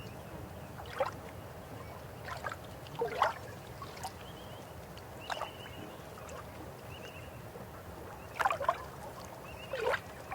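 River water flowing with a steady rush, broken by about seven irregular gurgles and splashes, the loudest about three seconds in and near the end.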